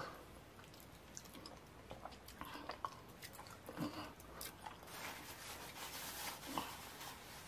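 Close-miked wet chewing and mouth smacking from eating fufu with slimy ogbono soup, with scattered soft clicks and pops. Near the end a paper tissue rustles as it wipes the mouth.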